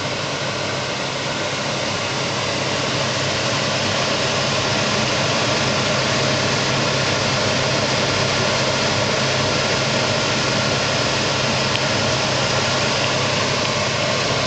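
Scratch-built twin-cylinder Robinson hot-air engine running steadily on one cylinder, with its other cylinder disconnected; the owner suspects something is wrong in the setup of the disconnected one. A steady hiss lies over the running and grows slightly louder in the first few seconds.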